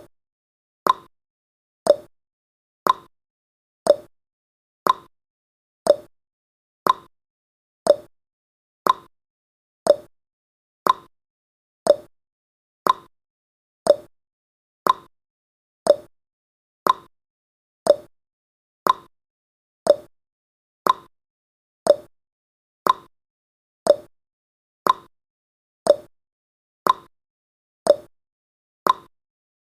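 Countdown timer's tick sound effect: one short, sharp tick every second, evenly paced.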